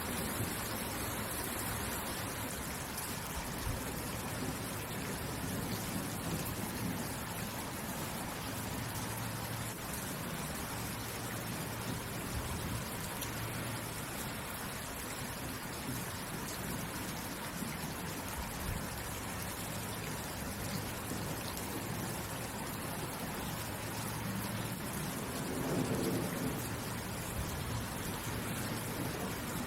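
Steady rain falling, an even hiss of drops, with a brief low rumble near the end.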